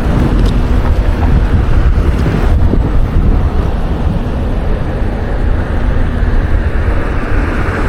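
Wind buffeting the microphone of a moving bicycle, a loud, steady low rumble, mixed with road and traffic noise.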